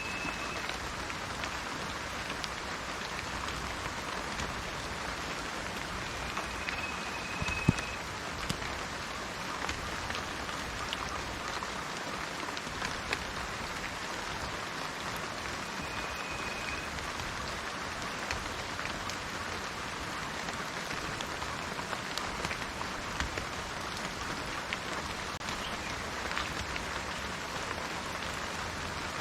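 Steady rain falling on garden plants and trees, an even hiss with scattered drips and one sharper drip or tap about seven and a half seconds in. A few brief, faint high tones come through the rain.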